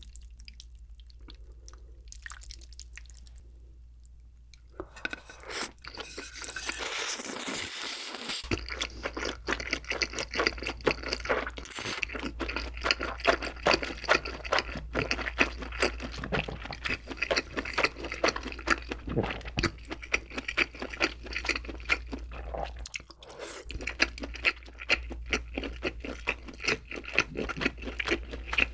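Close-miked eating of cheese jjimdak (braised chicken) with wide glass noodles. A slurp comes about seven seconds in, then steady wet chewing full of small clicks and smacks.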